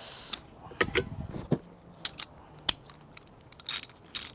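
Sharp metallic clicks and knocks from tools and bicycle parts being handled as the handlebars are taken off, with two short scraping bursts near the end.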